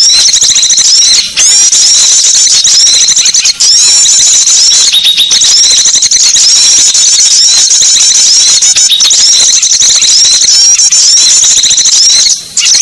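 Recorded small-bird lure call: a dense chorus of rapid, high-pitched chirps and twitters from many small songbirds, played loud to draw wild small birds in. The sound cuts out briefly three times: about a second in, after about three and a half seconds, and near the end.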